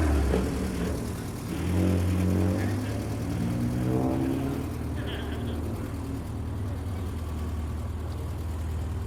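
A car engine running at a low idle and blipped a couple of times: once about two seconds in, and again with a rising pitch around four seconds in.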